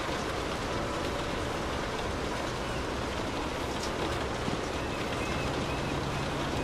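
Light rain falling steadily on a car's roof and windows, heard from inside the cabin as an even hiss with scattered drop ticks.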